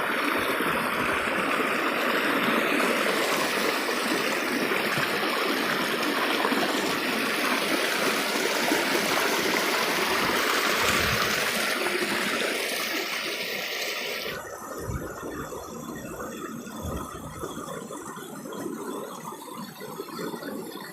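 Stream water rushing and splashing steadily. It becomes quieter and duller about 14 seconds in.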